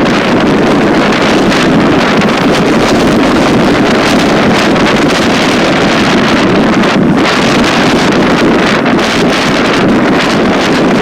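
Strong wind buffeting the microphone: a loud, steady rumbling rush with no let-up.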